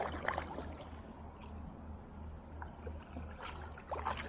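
Kayak paddling in shallow river rapids: water running over the shallows, with a few short paddle splashes, the loudest about three and a half and four seconds in, over a low steady rumble.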